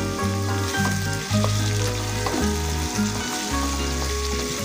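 A whole crab sizzling as it fries in a wok of sautéed spices and tomato, stirred with a spatula. Background music with a stepping bass line plays over it.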